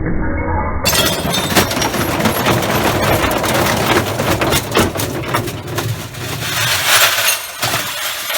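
Brick tumbling inside a washing machine's drum, knocking repeatedly and irregularly against the glass door as it breaks, with shattering and clinking of glass. The crackle rises to its loudest near the end.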